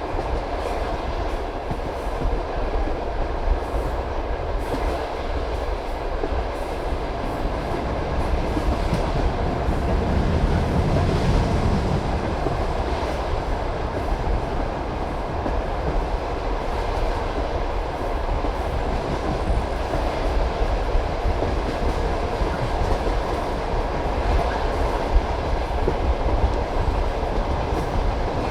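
Passenger railway carriage running along the track at speed: a steady rumble of wheels on rails with clicks of the wheels over rail joints. The low rumble swells briefly about ten seconds in.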